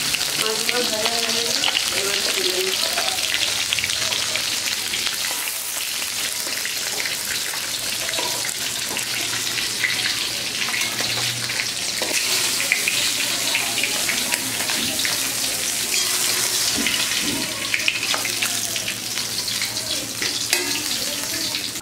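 Food frying in hot oil in a pan, with a steady sizzle and dense crackle.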